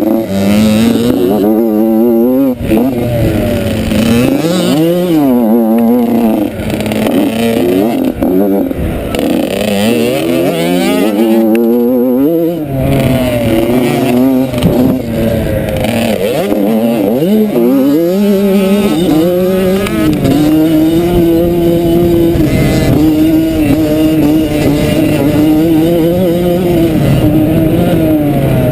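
Motocross bike engine revving hard and easing off over and over as it rides, its pitch climbing and dropping every second or two. It holds a steadier pitch for the last third.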